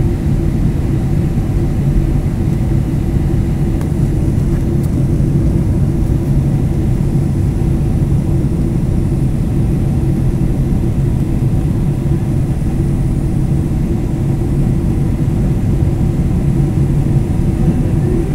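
Boeing 767-300ER jet engines and airflow heard inside the passenger cabin: a loud, steady low rumble with a constant hum and no sudden changes.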